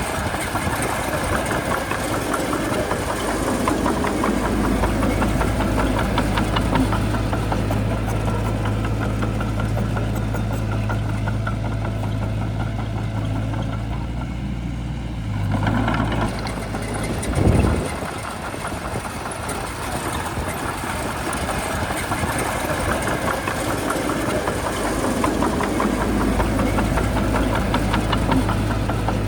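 Shantui bulldozer's diesel engine running steadily with a dense, fast clatter. The engine note shifts a little past halfway, and a short loud low thump follows soon after.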